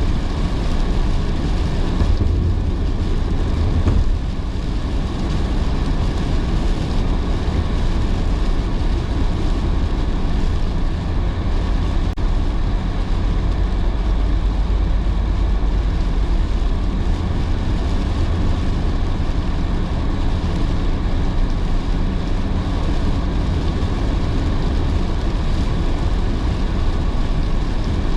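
Car driving on a rain-soaked road: a steady low rumble of engine and tyres with the hiss of wet tyres and rain.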